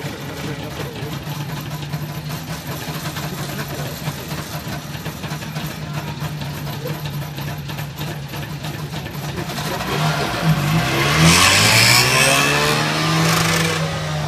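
Trabant's two-stroke two-cylinder engine idling steadily, then revved and launched from a standing start about ten seconds in, rising in pitch and getting much louder as the car accelerates away.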